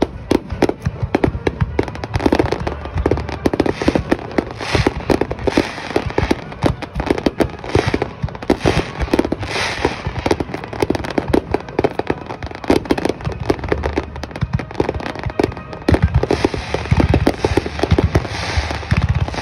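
A dense fireworks barrage: aerial shells bursting in rapid succession, several booms a second, over a continuous crackle, starting abruptly.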